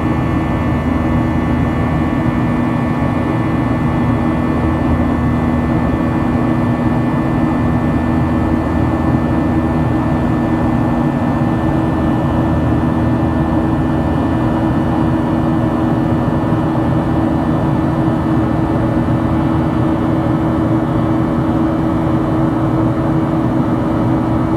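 Jet airliner engines heard from inside the cabin: a loud, steady drone with a constant low hum and no change in pitch.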